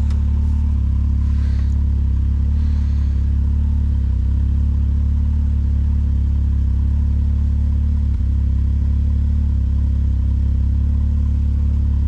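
Vehicle engine running at a steady speed while driving, a low even hum that barely changes.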